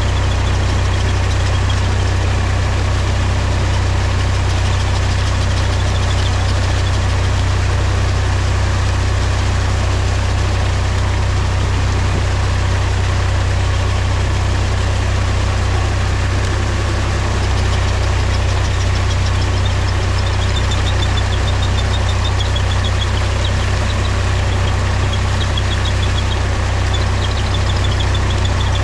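Mahindra tractor's diesel engine running steadily with a deep, even low rumble.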